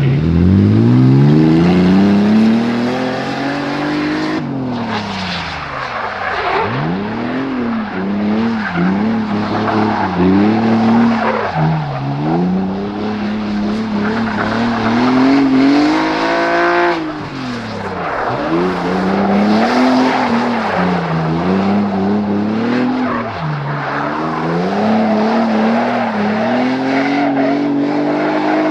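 BMW E30's swapped-in M54B30 3.0-litre straight-six revving up and dropping back over and over while drifting, with tyres skidding and squealing. The revs climb highest about 16 seconds in, then fall sharply.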